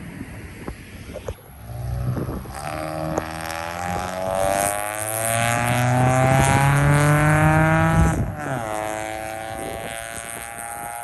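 A car engine accelerating hard, its pitch climbing steadily for several seconds. About eight seconds in it drops sharply at a gear change, then climbs again.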